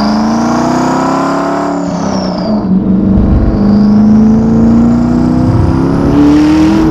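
Twin-turbocharged Ford GT's V8 accelerating hard at about 60% throttle: the engine note climbs, drops at a gear change about two seconds in, then climbs again. A high whistle rises and falls with it.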